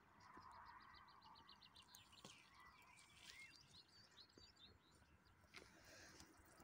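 Faint birdsong over quiet outdoor ambience: a quick even run of short high chirps, then a few scattered calls.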